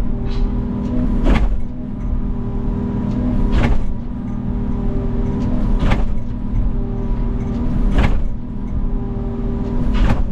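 Wacker Neuson mini excavator's diesel engine running steadily, with five sharp strikes about every two seconds.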